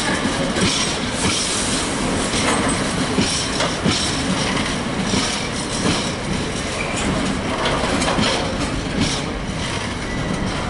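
Container freight train passing at speed: its flat wagons, some loaded with shipping containers and many empty, rumble steadily along the track, with the wheels knocking and clattering on the rails every half second or so.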